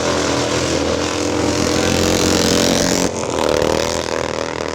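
Classic sprint motorcycle engine running hard at high revs, its pitch climbing slightly, then changing abruptly about three seconds in before it carries on.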